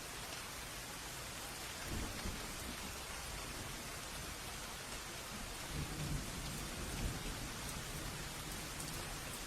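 Steady rain, with low rumbles of thunder about two seconds in and again around six to seven seconds in.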